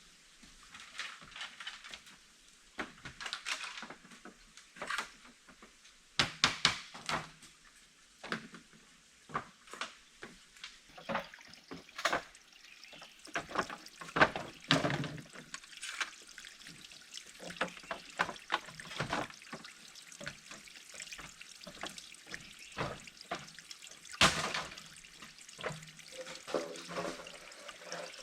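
Irregular splashing and dribbling of water, a series of short, uneven bursts with occasional knocks.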